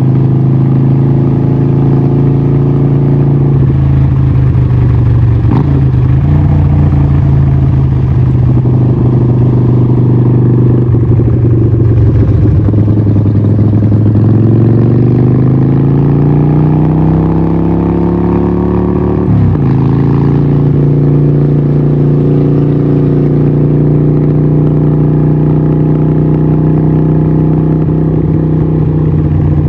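Harley-Davidson 1200 Nightster's 1200cc Evolution V-twin running loud through a Vance & Hines exhaust. The note holds steady, climbs slowly in pitch, then drops sharply about two-thirds of the way in and settles.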